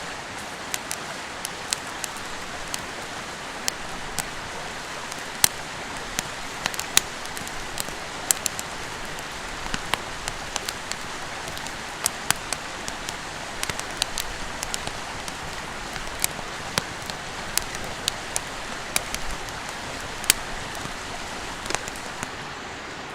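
Steady rush of a clear mountain stream, with frequent irregular sharp crackles and pops from a wood campfire.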